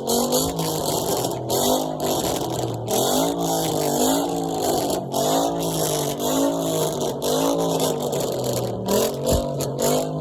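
Car engine revved over and over, its pitch rising and falling about once a second.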